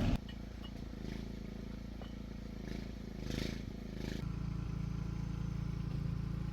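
An engine running steadily, its low note getting stronger about four seconds in.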